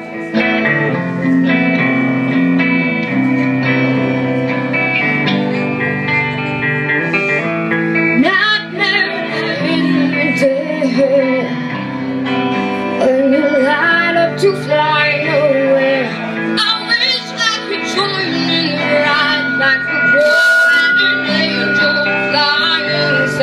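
A live rock band playing a song: electric guitar chords, with a voice singing in from about eight seconds in.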